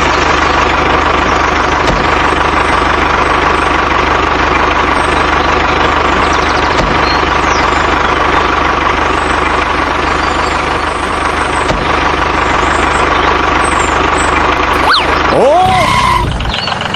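An engine running steadily at idle, like a tractor engine. About fifteen seconds in, a brief swooping tone rises and falls over it.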